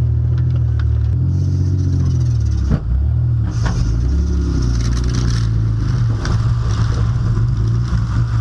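Demolition derby car's engine running loud at low speed, heard from inside the car, its speed dropping and picking up again a few times as it is driven.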